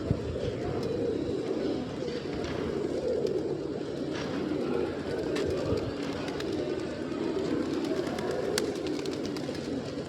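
Pigeons cooing, several at once, overlapping into a steady low murmur, with a few faint clicks scattered through it.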